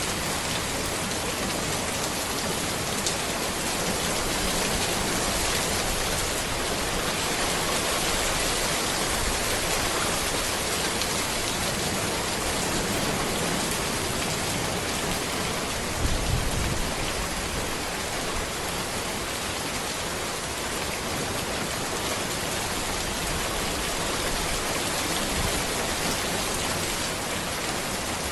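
Steady rain falling on a road, an even hiss of drops. A brief low thump a little past halfway stands out above it.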